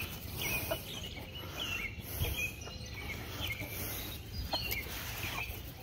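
Birds chirping: short, high, falling chirps about once a second over outdoor background noise, with a few faint knocks.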